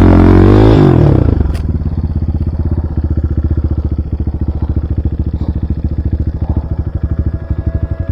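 Enduro motorcycle engine running at a steady idle, an even rapid putter, after a droning music tone that cuts off about a second in.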